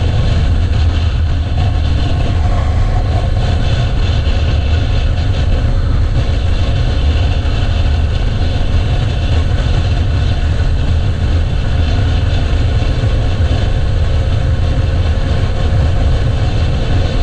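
Motorcycle running steadily on the move. A dense, unbroken low rumble dominates, with no change in pitch.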